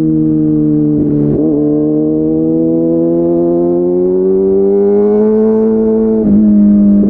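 Kawasaki ZX636R's 636 cc inline-four running through an SC Project slip-on exhaust while warming up, a steady high hum. The pitch dips briefly about a second in, then slowly climbs and settles near the end.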